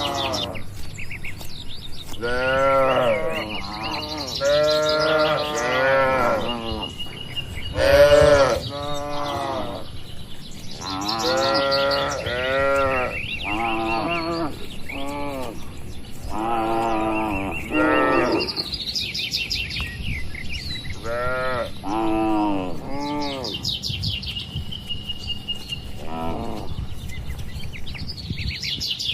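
Cattle mooing over and over, a long series of short, rising-and-falling calls, some overlapping.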